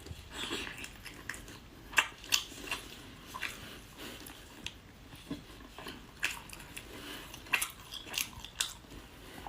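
Close-miked eating: a person biting and chewing a soft Northeastern Chinese rice sausage, with irregular sharp wet clicks and smacks of the mouth.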